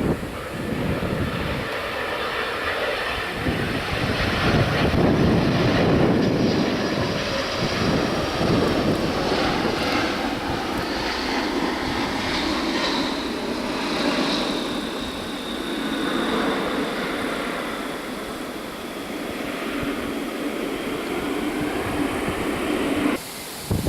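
A jet airliner's engines running loud as it passes, with a rushing rumble that is strongest about five seconds in and a high engine whine that drops slightly in pitch later on. The sound cuts off abruptly near the end.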